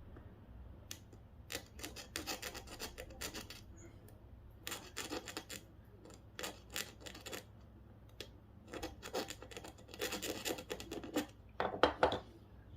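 Small metal tool scratching at the plating on circuit-board contacts to test whether it is gold or copper underneath. The scratching comes in three bursts of quick strokes, with a few sharper strokes near the end.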